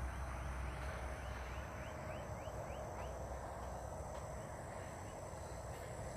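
A bird calls a quick series of about ten short rising notes, about four a second, trailing off about three seconds in, over a low outdoor rumble and a steady high thin tone.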